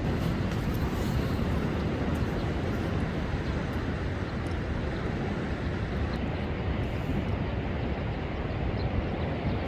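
Storm surf on a beach under a high wind and wave advisory, with strong wind buffeting the microphone: a steady, low rumbling wash of noise.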